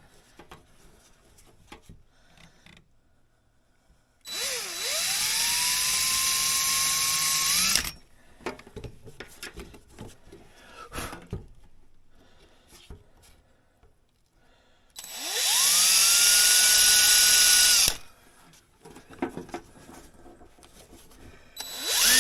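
Power drill running in two bursts of about three seconds each, its whine rising as it spins up and then holding steady, with a third burst starting near the end. Between the bursts there is light clicking and handling of tools.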